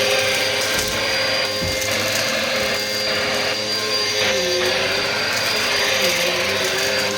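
Bissell vacuum cleaner running steadily: a continuous motor whine and airflow rush, with one tone in it wavering slightly in pitch.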